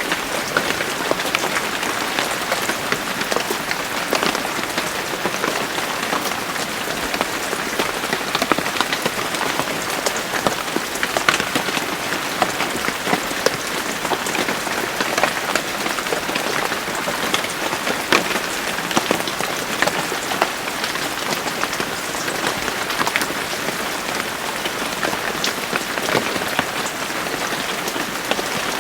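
Steady rain falling on a surface, with many individual drops ticking sharply through the even patter.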